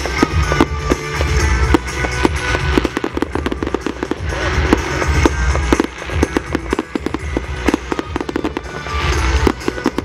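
Fireworks display: a dense run of sharp bangs and crackles in quick succession, with music playing underneath.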